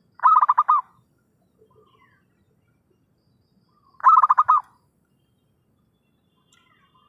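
Zebra dove (perkutut) lure call: two phrases of five or six quick staccato coos, one at the start and another about four seconds in.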